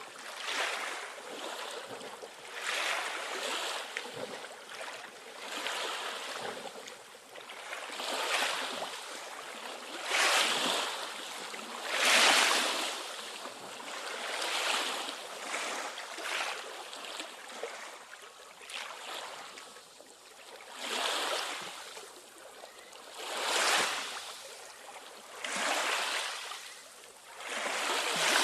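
Water washing in repeated surges, about every two to three seconds, each a short rush that rises and falls away.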